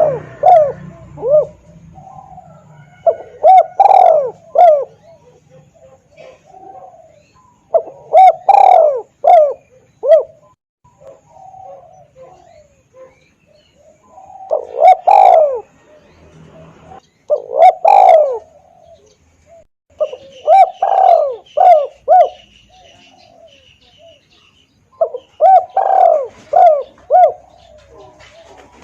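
Spotted dove (tekukur) cooing, played loud as a bird-trapping lure call: phrases of several short, arched coos repeated every few seconds, with brief pauses between phrases.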